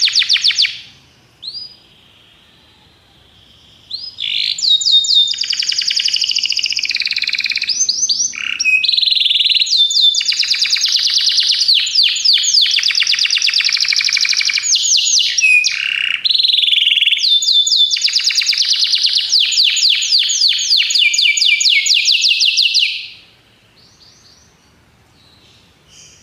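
Domestic canary singing: a phrase ends just after the start, then after a few seconds' pause comes one long song of rapid trilled rolls, switching from one trill to the next, lasting nearly twenty seconds before it stops.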